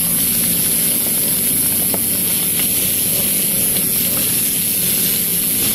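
Pork pieces sizzling in hot cooking oil in a frying pan on a portable gas stove: a steady hiss with a few faint pops of spattering oil.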